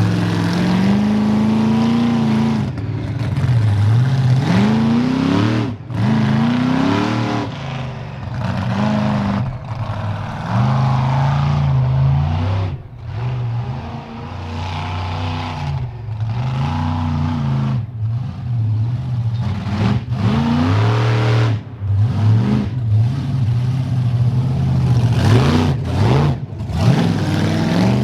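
Monster truck's big engine revving up and falling back over and over as it is driven, with brief throttle lifts between revs.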